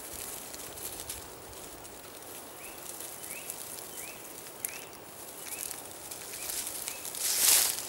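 A small bird repeats a short, rising chirp about every half second, over faint rustling in leaf litter. Near the end comes a brief, loud rustle.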